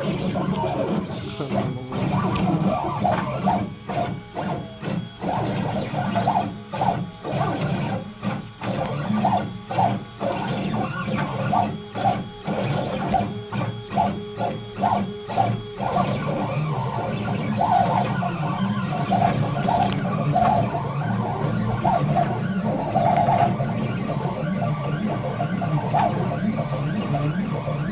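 CNC machine's stepper motors driving a drag knife through rigid foam board, with a steady hum under short whining tones that shift in pitch as the axes change direction. The moves are choppy and stop-start for about the first half, then run more continuously.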